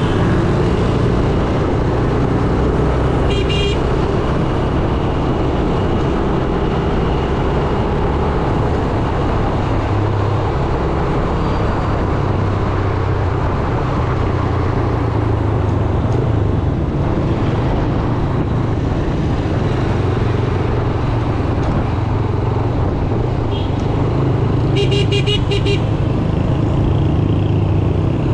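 Yamaha YBR 125G's single-cylinder 125 cc four-stroke engine running steadily under way in heavy traffic, with road noise. A horn honks briefly about three and a half seconds in, and again near the end.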